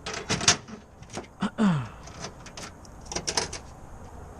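Clicks and knocks of toolbox lids, latches and bins being handled in a service van's storage racks, in three short clusters.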